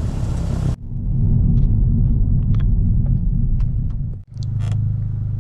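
Exhaust of a straight-piped 10th-gen Honda Civic's turbocharged four-cylinder giving a low, steady rumble at low revs, with a few faint clicks over it. The sound cuts off abruptly just under a second in and again near four seconds, then the rumble resumes.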